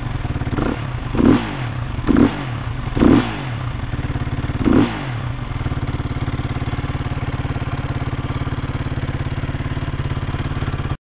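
2010 Husqvarna SMR 510 supermoto's single-cylinder four-stroke engine idling through its twin exhaust, blipped four times in quick succession in the first five seconds, then settling back to a steady idle. The sound cuts off abruptly near the end.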